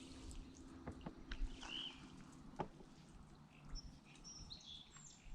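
Faint bird calls: a few short chirps, then a quick run of high repeated notes near the end. Scattered light clicks are heard in between.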